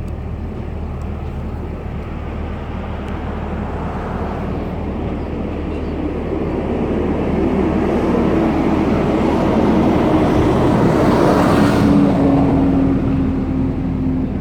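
A car driving, its engine and road noise growing steadily louder to a peak near the end, then easing off. There is no clear clunk to be heard.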